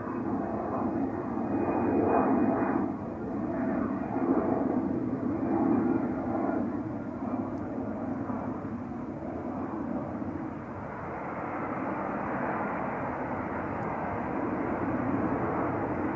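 Airplane engines near the runway: a steady rushing noise, loudest in the first six seconds, then settling a little lower.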